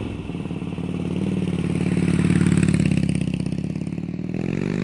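Harley-Davidson Twin Cam 96 V-twin with Rush slip-on mufflers running, revving up and holding, then its pitch climbing again near the end.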